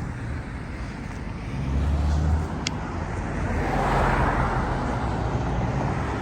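Road traffic: a steady low engine rumble, with a vehicle passing that swells up about four seconds in and fades again. A brief high squeak sounds a little before the passing peak.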